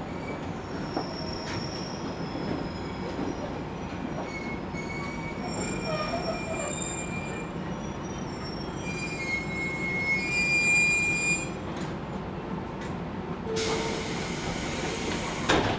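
JR Kyushu 813 series electric train slowing to a stop, heard from inside the car: running noise with high-pitched wheel and brake squeals, loudest about ten seconds in. A burst of loud hiss comes shortly before the end.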